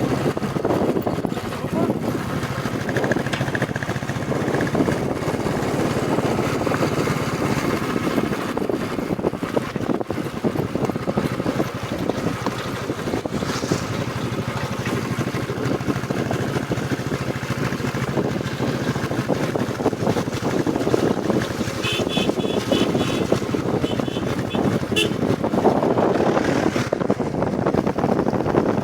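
Royal Enfield Bullet Classic 350 single-cylinder motorcycle riding along, its engine running under steady wind rush on the microphone. A horn gives several short toots about three-quarters of the way through.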